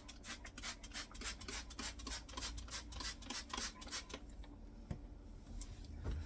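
Rapid back-and-forth scrubbing strokes on a dishwasher's rubber door seal, several a second, stopping about four seconds in.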